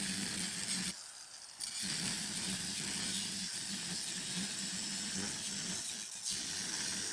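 A small machine or power tool running steadily with a pulsing hum and a hiss. It cuts out briefly about a second in, then runs on.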